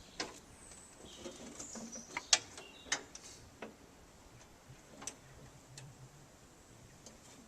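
Scattered sharp clicks and light knocks of handling, the loudest a little over two seconds in; no engine running.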